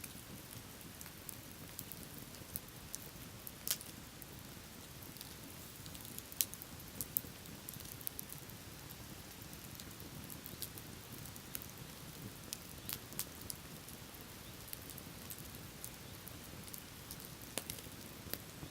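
Wood bonfire crackling: irregular sharp pops and snaps, a few louder than the rest, over a steady low rushing noise.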